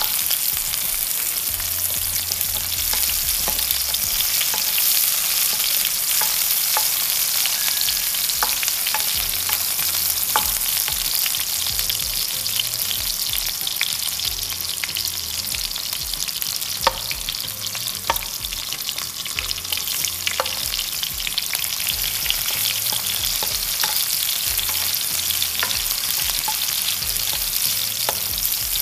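Garlic and onion sizzling steadily in hot oil in a pot while a spatula stirs them, scraping and clicking now and then against the pot.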